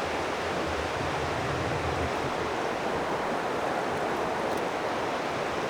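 River water rushing steadily, a continuous even hiss of flowing water.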